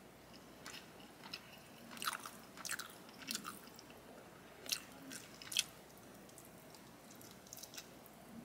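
A person chewing a big bite of grilled chicken in Alfredo sauce, heard close up as soft, irregular mouth clicks, the loudest a little past the middle.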